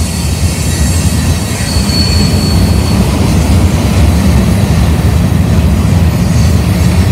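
Freight train rolling past: a steady low rumble of rail cars on the track, getting a little louder, with a thin high wheel squeal that fades out about three seconds in.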